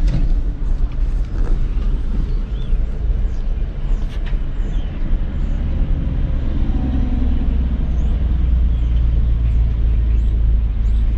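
Cadillac idling at a standstill, a steady low rumble heard from inside the cabin with the driver's window open. The rumble grows a little stronger in the last few seconds.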